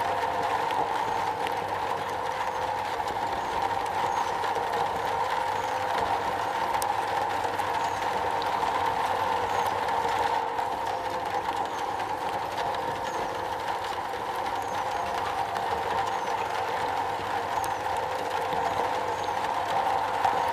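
Steady rain falling on a metal roof: a dense, even patter of drops with no letup.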